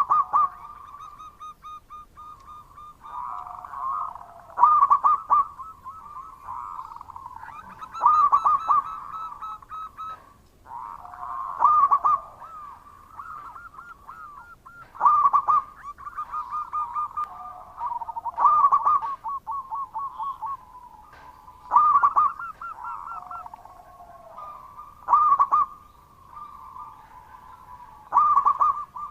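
Zebra dove (perkutut) singing: rapid, trilled staccato coos near 1 kHz, rising to a loud phrase about every three and a half seconds, with softer trilling between the phrases.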